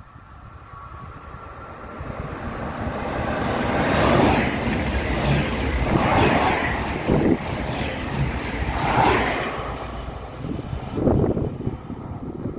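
Electric multiple-unit passenger train running through the station at speed, close past the platform: the rush of wheels on rail builds, stays loud with several swells, and falls away near the end.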